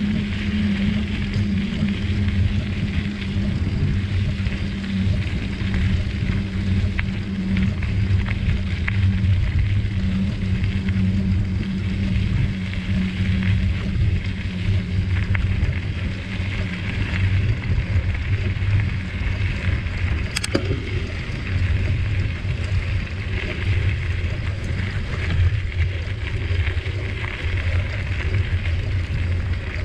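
Steady rumbling noise of a bicycle ride: tyres rolling over a forest trail and wind on the microphone, with one sharp click about two-thirds of the way through.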